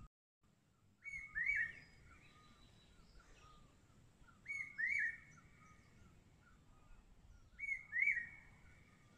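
A bird calling a short whistled phrase of two quick rising notes, repeated three times about three seconds apart.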